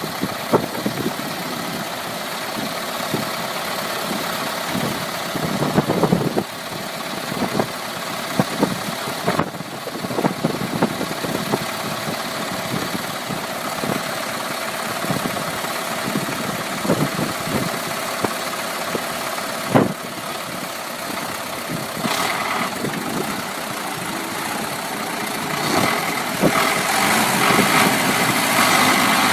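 A motor vehicle's engine running steadily, with scattered knocks and clunks; it grows louder over the last few seconds.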